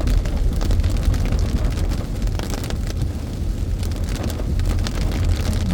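Steady low road and engine rumble inside a moving car's cabin, with raindrops ticking on the windshield and roof.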